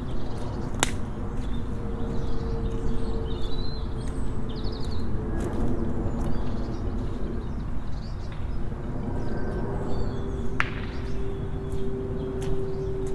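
Outdoor ambience of small birds chirping and tweeting intermittently over a steady low rumble, with a droning hum that fades in and out and two sharp clicks, one about a second in and one near the end.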